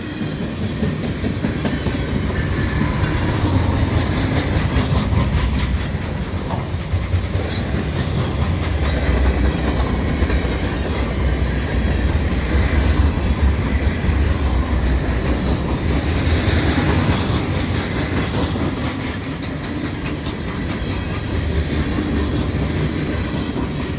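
Canadian National mixed freight train rolling past: a heavy rumble from the cars, with their wheels clicking over the rail joints.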